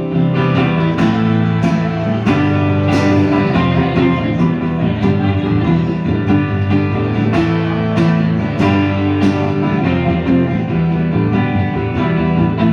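Instrumental passage of a rock song played live: a strummed acoustic guitar keeps a steady rhythm under held notes, with no singing.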